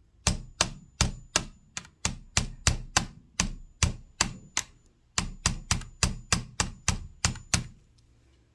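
Repeated sharp metal-on-metal taps, about three a second, thirteen or so, a short break, then about nine more: a part being tapped down onto a spindle inside a sewing machine to seat it.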